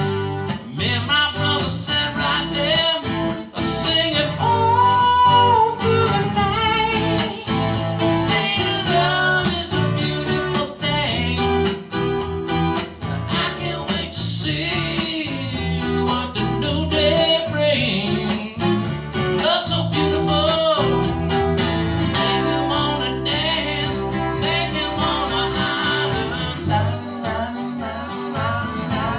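Live country-blues song played on acoustic guitars, strummed and picked, with singing.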